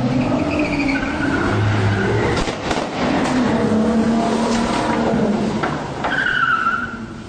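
Car on the road with engine and tyre noise, a few sharp knocks just before the middle, and short high-pitched squeals, the loudest near the end.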